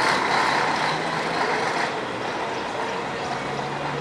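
Scania K113CL coach's 11-litre six-cylinder diesel engine running with a steady low drone. A rush of noise lies over it for the first two seconds, then eases.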